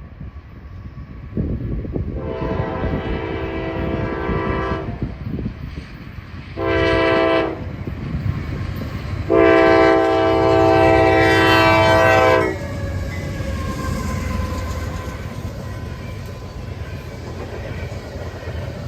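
Fast freight train passing with its air horn sounding three times, long, short, long, a chord of several tones over the rumble of the locomotive and the wheels on the rails.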